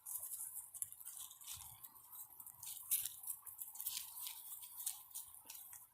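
Border Collie puppies chewing and pawing at shoes and laces: a run of quick, scratchy clicks and rustles.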